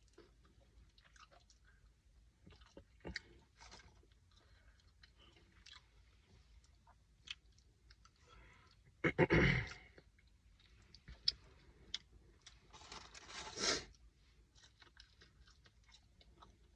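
Close-miked chewing and crunching of a person eating fast food, with small wet mouth clicks, and two louder rustling bursts, one about halfway through and one about three-quarters through.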